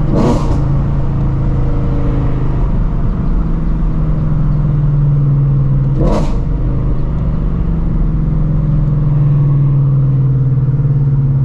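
Shelby GT350's 5.2-litre flat-plane-crank V8 with long-tube headers droning steadily while cruising, its pitch holding nearly level. Two brief whooshes come through, about a quarter second and about six seconds in.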